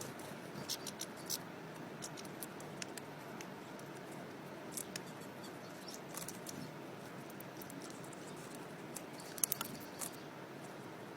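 Small sharp clicks and cracks, scattered and sometimes in quick runs of three or four, over a faint steady hiss: European goldfinches cracking sunflower seeds in their beaks.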